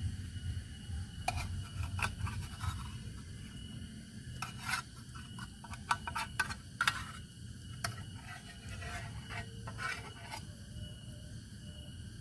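Irregular scraping and rubbing strokes, about a dozen short ones, over a steady low background noise.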